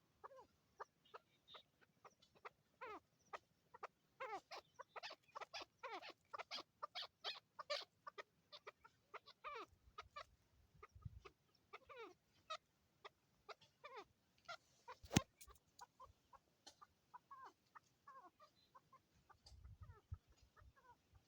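Chukar partridges calling, a rapid run of short clucking chuck notes that thins out after the first half. A single sharp click, the loudest sound, comes about two-thirds of the way through.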